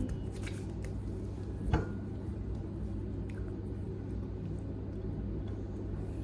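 Light clicks and handling noise from a skincare bottle being handled, one sharper click a little under two seconds in, over a steady low hum.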